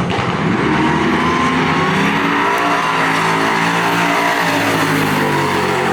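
Drag car engine at full throttle, accelerating hard down the strip. Its pitch climbs and drops back again and again as it shifts through the gears.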